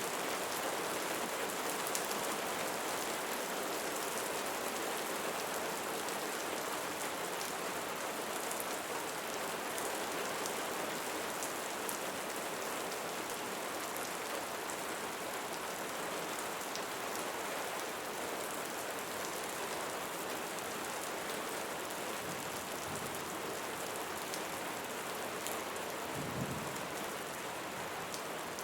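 Steady rain falling and pattering on a surface, with faint scattered drip ticks and a brief low rumble about 26 seconds in.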